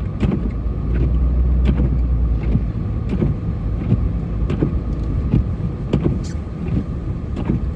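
Snowplow truck's engine running as it pushes snow, heard from inside the cab. The low rumble swells for a second or so about a second in, over scattered knocks and rattles.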